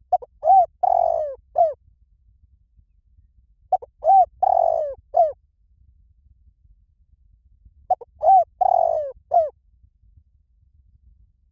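Spotted dove cooing: the same short phrase of low coos, several arched notes with one longer drawn-out coo in the middle, repeated three times about four seconds apart.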